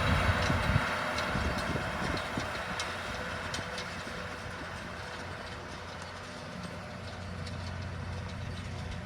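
Ford 8210 tractor's six-cylinder diesel engine running, fading over the first few seconds to a low steady background, with scattered light clicks and rattles.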